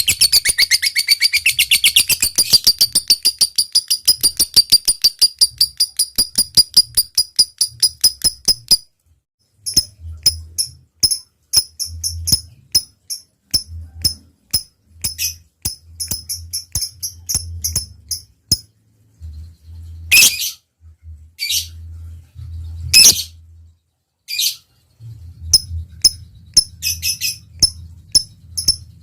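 Lovebird chattering: a long fast run of sharp chirps, about five or six a second and slowing, that stops about 9 seconds in. After that come scattered single chirps and a few longer harsh calls.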